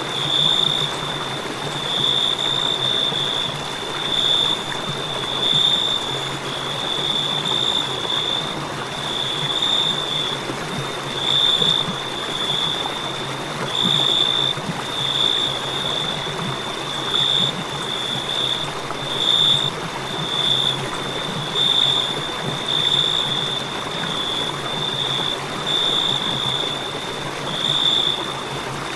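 Crickets chirping: a high, shrill trill that swells and fades about every second or two, over a steady hiss.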